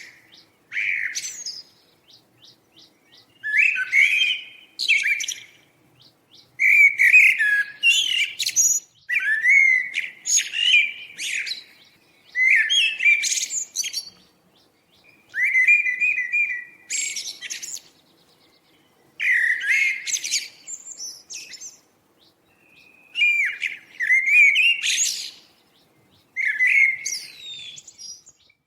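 A songbird singing a varied song of quick notes, the same phrase repeated about every three seconds with short pauses between.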